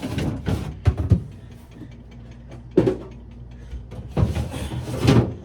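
Irregular knocks, clicks and rattles as the refrigerator's removable shelving is worked loose and pulled out of its slots, in several bursts.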